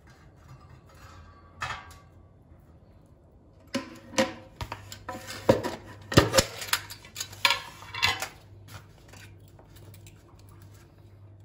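Dishes and metal utensils clinking and clattering: a single clink about one and a half seconds in, then a run of sharp clinks and knocks lasting about four seconds, some ringing briefly.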